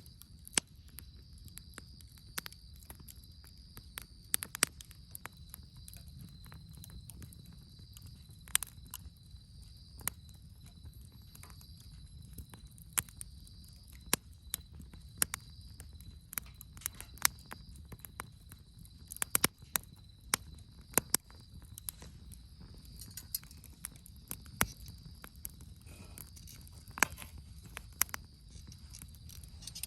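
Wood campfire crackling: irregular sharp pops and snaps over a low steady rush of the burning fire.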